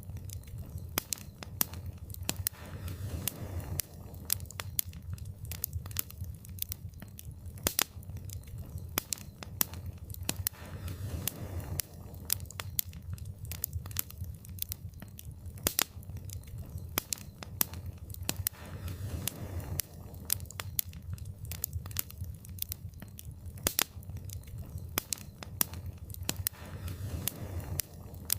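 Wood fire in a fireplace crackling: a dense, irregular run of small snaps and a few louder pops over a low, steady rumble of the flames.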